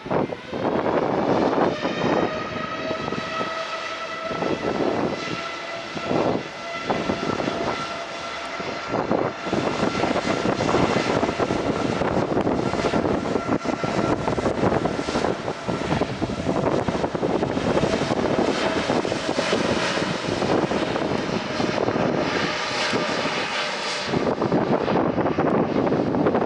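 Boeing 787-9 Dreamliner's twin jet engines at takeoff power: a loud, steady roar with high whining fan tones over it, which fade out near the end.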